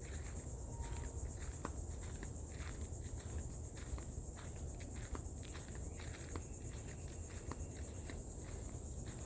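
Steady high-pitched drone of an insect chorus in the woods, with faint scattered bird calls among which a Carolina wren sings.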